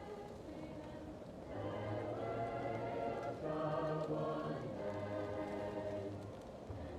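Choir singing slow, held chords, heard from another room, with deeper voices coming in about a second and a half in. A fireplace crackles faintly underneath.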